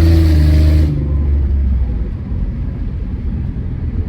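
Car engine and road noise heard from inside a moving car: the engine note rises, then drops away suddenly about a second in, leaving a steady low rumble.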